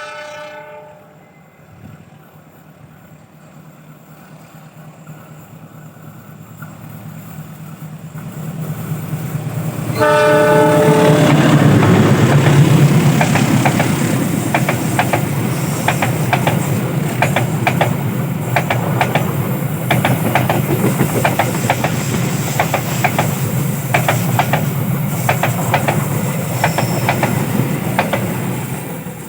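Diesel locomotive sounding a short horn blast, its engine rumble growing as it approaches, then a second horn blast about ten seconds in. It passes with a loud engine rumble, and the wheels clatter rapidly over rail joints as the carriages go by.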